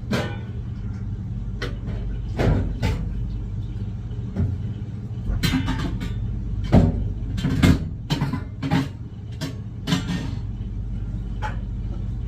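Repeated knocks and clatters of items being handled and put away while a food stall is packed up, over a steady low rumble.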